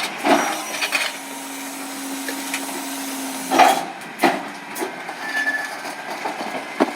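Several hard knocks and clatters, like recyclables and bins being handled at a recycling truck, with a steady low hum that stops suddenly with a loud knock partway through.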